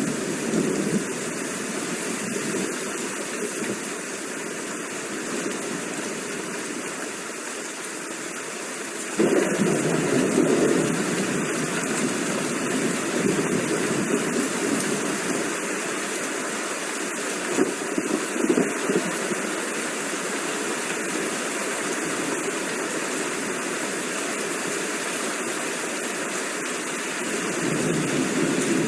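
Steady rain, an even hiss. About nine seconds in it suddenly grows louder and fuller, then holds that way.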